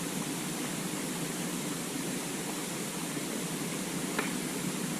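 Steady rushing of a waterfall, with a faint click about four seconds in.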